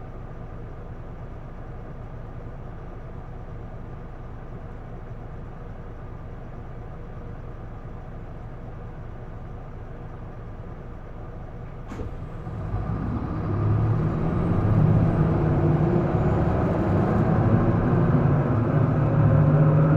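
Isuzu Erga PDG-LV234L2 city bus heard from inside the cabin: its diesel engine hums steadily at idle. About twelve seconds in there is a click, and then the engine speeds up and gets much louder as the bus pulls away.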